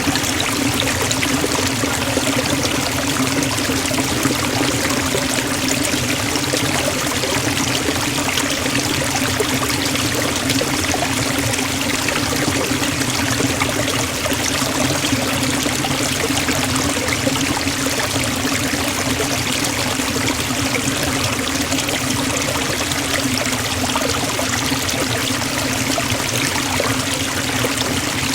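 Forest waterfall: water falling steadily into a pool, an even, unbroken rush of white noise.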